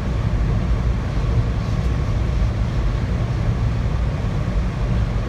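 Passenger train in motion, heard from inside its dome car: a steady low rumble of the car running on the track.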